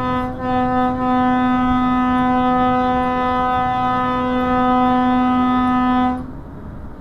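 Vehicle horn sounding on one steady pitch: a short toot, then a long held blast of about six seconds that cuts off.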